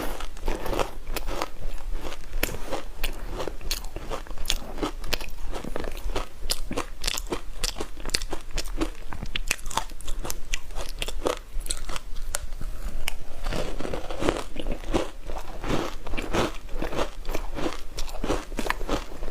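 Ice dusted with matcha powder being bitten and chewed close to the microphone: a dense run of sharp cracks and crunches, with a heavier spell of crunching about two-thirds of the way through.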